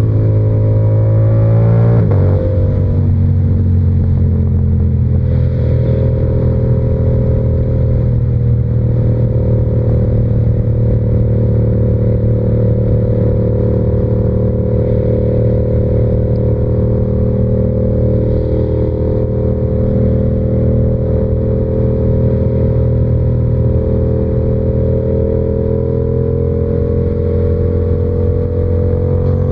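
Yamaha R7's 689 cc parallel-twin engine under way, heard from the rider's position. The revs climb for about two seconds and change abruptly, like a gear shift. Then it runs steadily at cruising speed, its pitch creeping slowly up.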